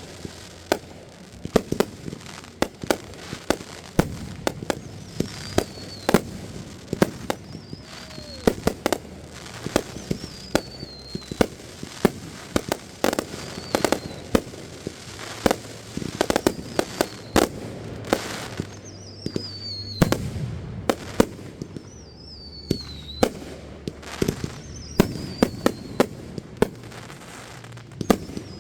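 Fireworks going off in rapid succession: many sharp bangs and cracks, with short whistles falling in pitch every couple of seconds.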